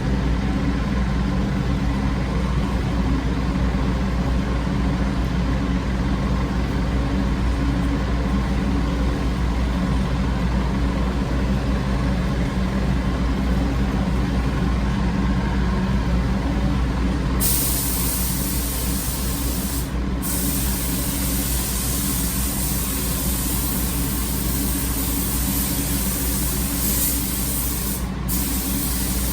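A steady low machine hum throughout; about two-thirds of the way in, the hiss of a paint spray gun starts as a coat is sprayed, with two brief breaks where the trigger is let off.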